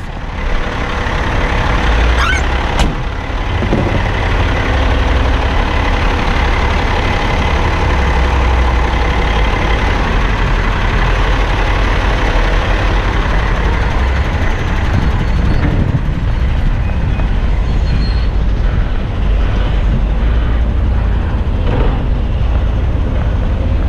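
Heavy dump truck's diesel engine running steadily, with a single short sharp sound about three seconds in.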